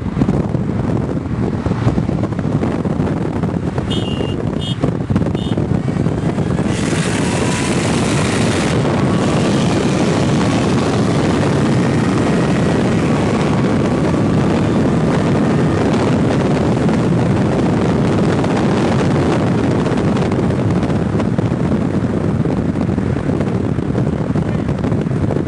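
Honda K-series four-cylinder car driving, its engine heard under a steady rush of wind and road noise. A faint, slowly rising tone comes in near the middle.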